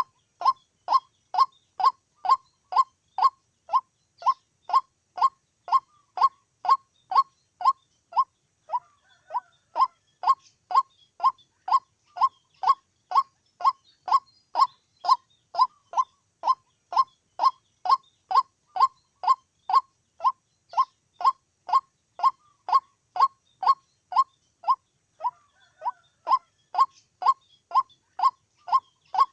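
White-breasted waterhen calling, one short downward-sliding note repeated very evenly, a little under two a second.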